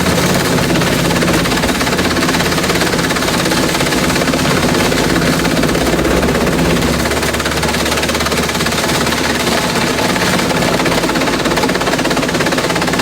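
Industrial bamboo shredder running and shredding bamboo: a loud, continuous dense clatter with a steady low motor hum underneath.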